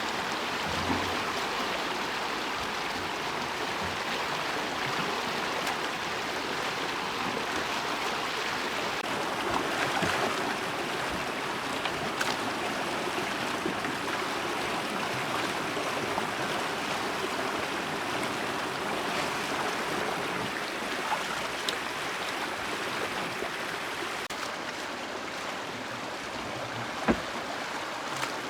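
Steady rush of flowing water, with a few faint clicks and one sharp knock near the end.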